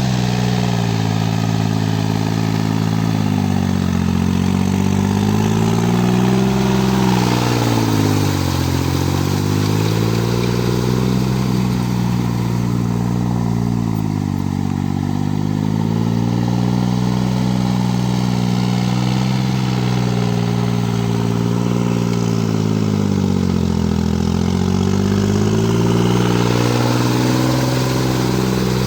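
Kubota L2202 tractor's diesel engine running steadily under load in mud. Twice the engine note sags lower and then climbs back as the engine is lugged and recovers.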